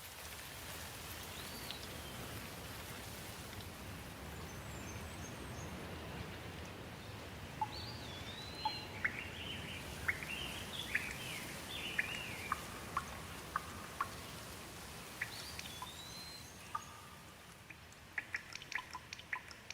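Steady rain, with a bird calling in short rising and falling whistles through the middle. Near the end the rain thins and single drops can be heard dripping.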